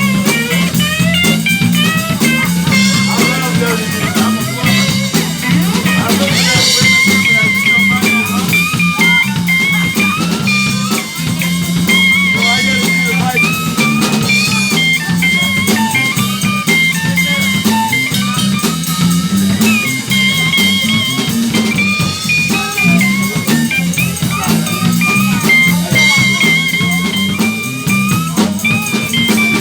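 A live blues jam: a lead guitar solos with bent and wavering notes over a walking bass line and a drum kit.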